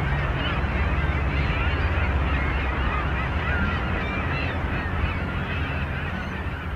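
A large flock of geese calling all at once, a dense, loud din of many overlapping calls over a steady low hum, easing off slightly toward the end.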